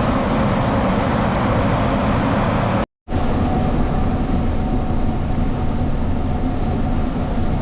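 Farm harvest machinery running with a steady, loud engine and machine drone. About three seconds in the sound breaks off for an instant and resumes as a different steady drone with a faint whine.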